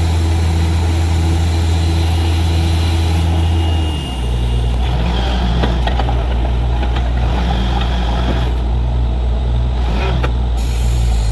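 Borewell drilling rig's engine running steadily under load with a deep hum. About four seconds in it drops to a lower speed and keeps running.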